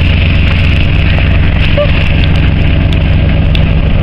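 A vehicle's engine running steadily, with a constant low hum and a rushing noise over it, as heard from a moving vehicle.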